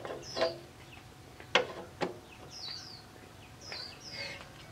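A small bird chirping in short, high, falling notes, repeated several times, with a few sharp knocks, the loudest about a second and a half in.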